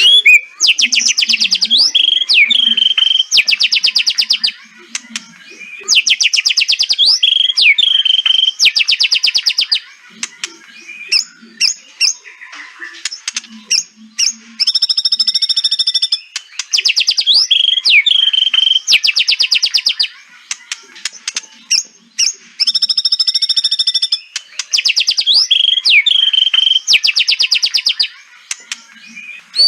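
White-rumped shama giving rapid rattling 'kretekan' calls in repeated bouts of about two seconds, each followed by short gliding whistled notes, with a couple of harsher buzzy calls in between.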